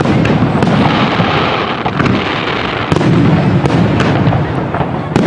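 Aerial fireworks going off in a dense barrage: booms follow one another with no gap, and sharp cracks come throughout.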